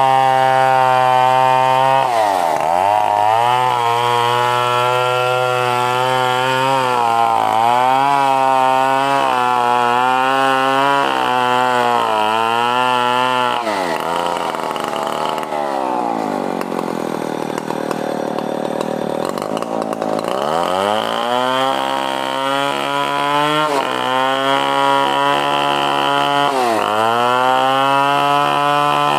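Stihl 070 two-stroke chainsaw running at high revs while cutting through coconut palm wood, its pitch wavering up and down with the load. About halfway through, the pitch sags low and rough for several seconds, then climbs back to full speed.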